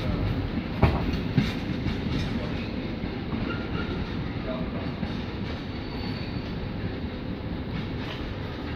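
Steam train and its carriages rolling along the track, with two sharp clicks about a second in. The rumble slowly fades as the train pulls away.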